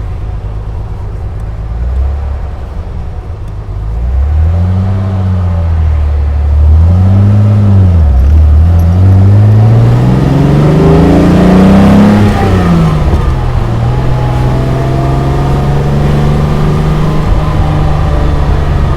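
Mercedes-Benz 300 SL Roadster's 3.0-litre straight-six accelerating through the gears. The engine pitch rises and falls twice in quick succession, climbs steadily for about four seconds, drops at a gear change about twelve seconds in, then holds steady at cruising speed.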